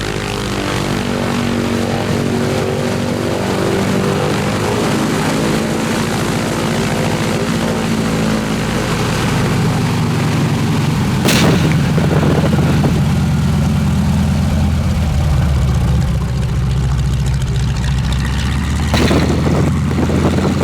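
T6 Harvard's Pratt & Whitney R-1340 Wasp radial engine and propeller running at low power on the ground, with the engine speed shifting in the first half and then holding steady. Two brief sharp noises cut through, about 11 and 19 seconds in.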